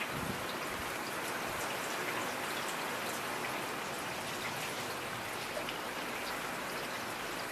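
Steady rainfall, an even hiss with many small drops pattering on a surface.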